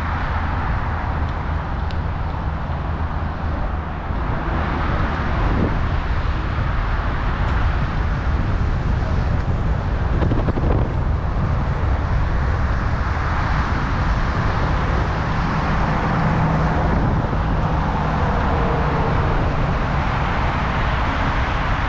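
Steady rushing noise of a bicycle ride along city streets: wind over the microphone and road traffic going by, with a couple of brief swells as vehicles pass.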